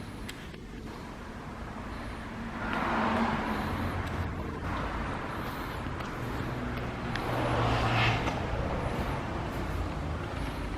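A car running, with a steady low hum and two swells of louder noise, about three and eight seconds in.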